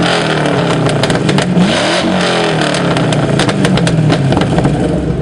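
A car engine revving: its pitch climbs and drops back twice, once peaking at the very start and again about two seconds in, with sharp clicks and pops scattered through.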